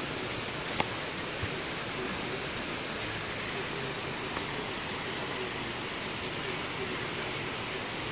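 Heavy thunderstorm rain pouring down on rooftops and streets, a steady hiss, with a sharp tap about a second in.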